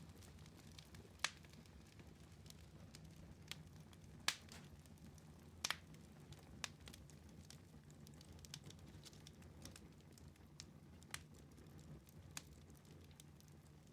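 Wood fire in a fireplace crackling softly, with scattered sharp pops, the loudest about a second in, about four seconds in and near six seconds, over a faint low hum.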